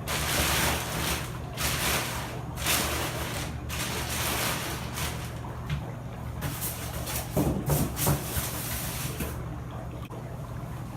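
Dry ice bubbling in a sink of soapy water: an uneven, rushing fizz that swells in surges and dies down near the end.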